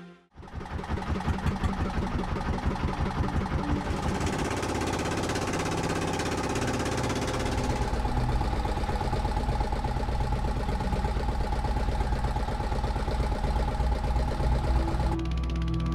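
Engine of a small motorboat running steadily, its firing pulses plain, the tone shifting a few times.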